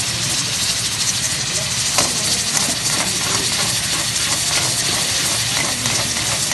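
Chicken frying in hot oil in a wok, with a loud, steady sizzling hiss. From about two seconds in, a metal spatula scrapes and knocks against the wok several times a second as the food is stirred.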